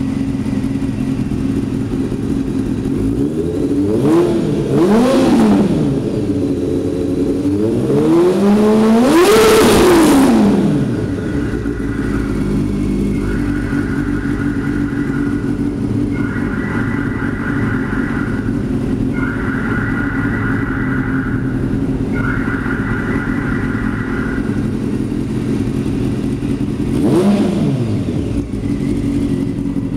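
Honda CBR600 F3's inline-four engine idling through Yamaha R1 exhaust cans with race baffles, loud. It is blipped twice a few seconds in, revved higher and held for a couple of seconds, then settles back to idle. One more quick blip comes near the end.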